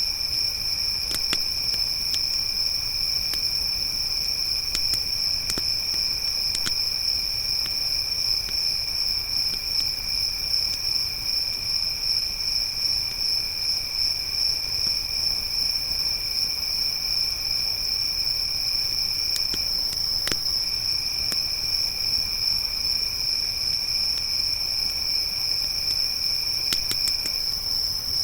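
Crickets chirping in a steady, high-pitched trill, with a second, lower trill that drops out briefly twice. A few sharp crackles of a wood campfire pop up here and there.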